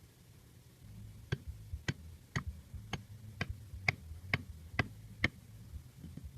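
A run of nine sharp, evenly spaced clicks or taps, about two a second, over a faint low hum.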